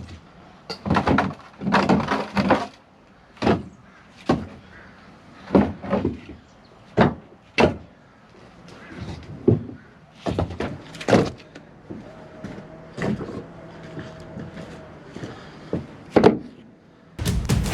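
Split firewood logs knocking and clunking against each other as they are stacked by hand, about a dozen irregular wooden thuds.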